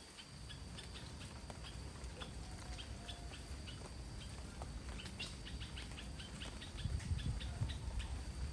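Rainy forest ambience: a steady low rush of rain under a bird giving quick, irregular repeated chirps. The rush gets louder near the end.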